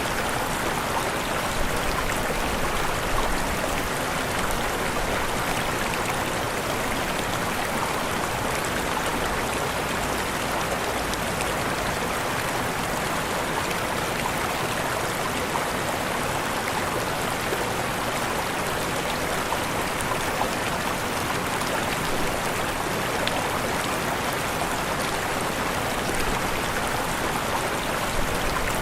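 Waterfall: water falling and splashing in a continuous, steady rush.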